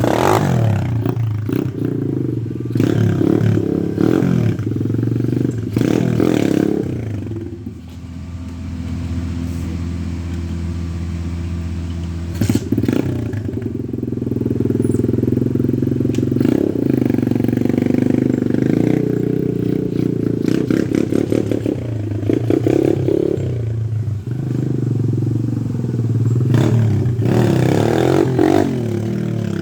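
Pit bike's small single-cylinder engine revving up in repeated throttle bursts, the kind used to pop wheelies. About a third of the way in it settles briefly to steadier, lower running.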